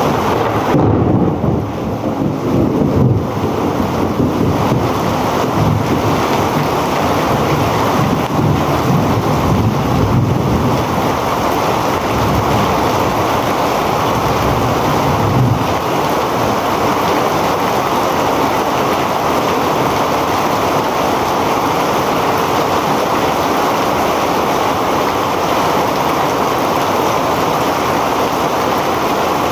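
Heavy rain falling in a steady, dense hiss. Low rumbling swells in and out during the first half, then the rain carries on evenly.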